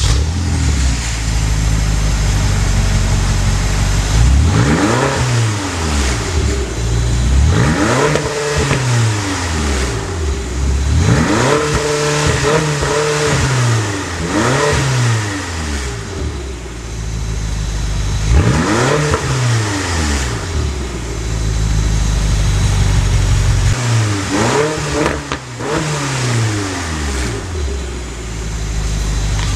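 BMW X6 M's twin-turbo V8 through a Remus titanium exhaust, idling and revved up and back down about six times, one rev held briefly near the middle.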